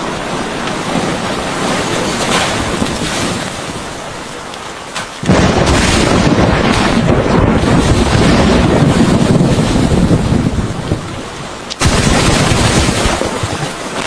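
Storm noise of heavy rain and wind, a loud, continuous rushing, in three clips cut together: it jumps louder and deeper about five seconds in and changes abruptly again near twelve seconds.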